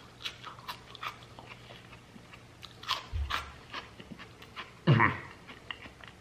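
Crunching chews on a dry, brittle freeze-dried peach piece, a string of short sharp crackles with a louder cluster about three seconds in. About five seconds in, a short voiced sound falls in pitch.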